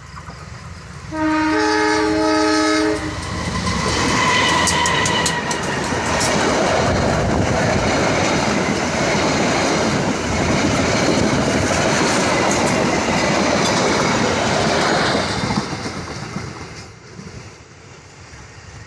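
Passenger train's locomotive horn sounds one chord of several tones for about two seconds, about a second in. The train then passes close by with loud wheel-and-rail noise and clacking over the rail joints, and the sound fades as it moves away near the end.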